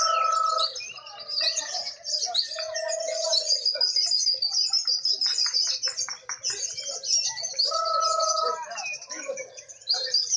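Many lovebirds chirping and chattering without pause in a dense, shrill stream, the active calling that contest judges reward. A few held lower tones break in, at the start, near 3 seconds and near 8 seconds, and there is a quick run of clicks midway.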